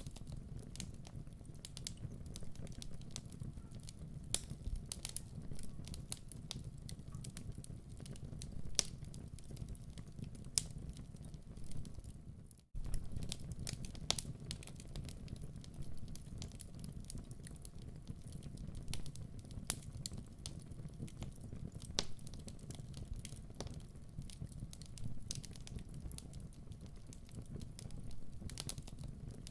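Wood fire crackling in a fireplace: a steady low rumble of flames with scattered sharp pops and snaps. The sound cuts out for an instant about twelve seconds in, then carries on.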